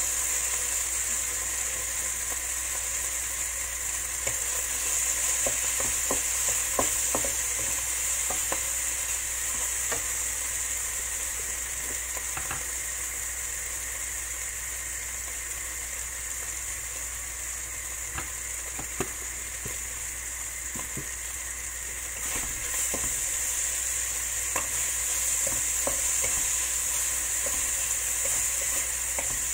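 Eggplant frying in oil in a wok over a gas flame, sizzling steadily, with scattered taps and scrapes of a wooden spatula against the pan.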